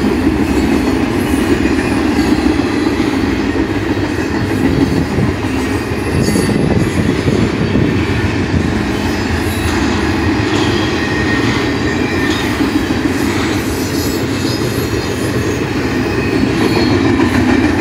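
Double-stack intermodal freight cars rolling past, making a loud, steady rumble of steel wheels on rail. Light high-pitched wheel squeals come now and then, most clearly around ten seconds in.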